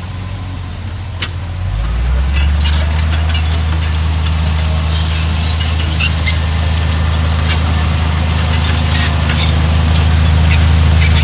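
Heavy diesel engine of earthmoving machinery running steadily under load, growing louder about two seconds in, with scattered clanks and rattles over it.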